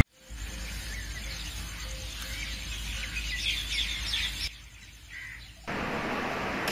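Small birds chirping, a quick run of short high calls, over a steady low room hum. The background drops suddenly to quieter room tone about four and a half seconds in and comes back louder a second later.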